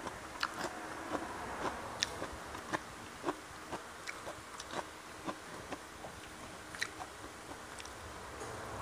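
Close-up chewing of fried catfish eaten by hand: a run of small sharp clicks, about two a second.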